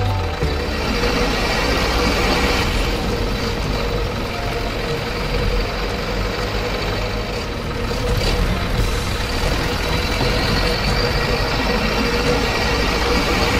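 Truck engine running steadily, with a constant hum and no sharp changes.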